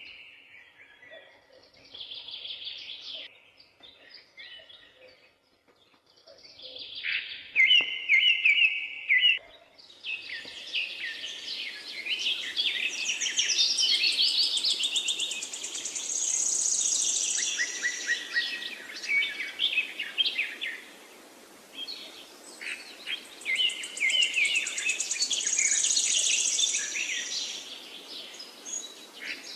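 Forest birds singing, several species overlapping. A short repeated song phrase comes back at intervals. About a third of the way in, a dense chorus of chirps and trills builds over a steady hiss.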